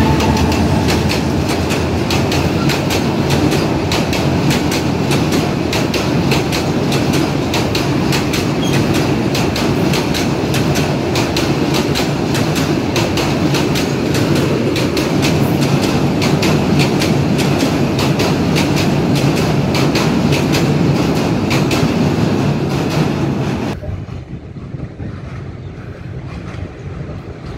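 A diesel train passing close over a steel truss railway bridge: the locomotive's engine at the start, then a long run of wheels clattering over the rails and bridge. The sound drops away suddenly about 24 seconds in, leaving quieter rumble.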